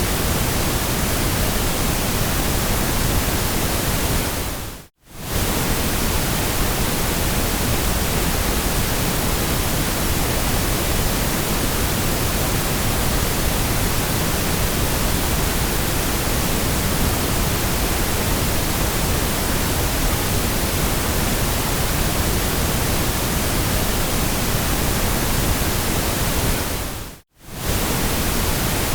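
Steady generated white noise, an even hiss. It fades away to silence and cuts back in abruptly twice, about 5 seconds in and again near the end, where the noise track loops.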